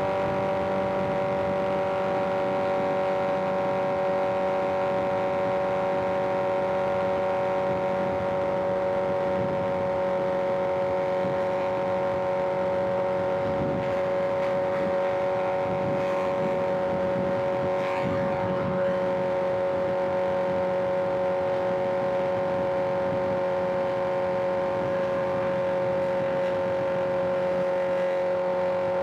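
Inline-four sportbike engine holding a steady cruising speed on the highway, its note nearly constant and easing down very slightly, with wind rush.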